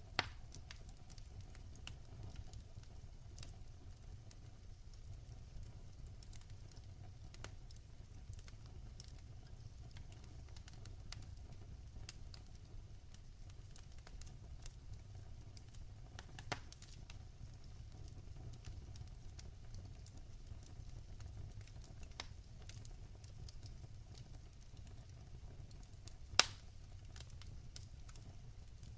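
Wood fire burning in a fireplace: a steady low rumble with faint crackling throughout and a few sharp pops, the loudest near the end.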